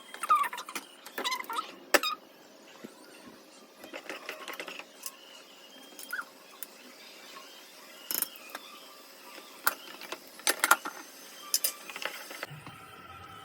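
Objects being handled by hand: scattered sharp clicks and knocks with stretches of rustling between them, the loudest knocks about two seconds in and again between ten and twelve seconds in.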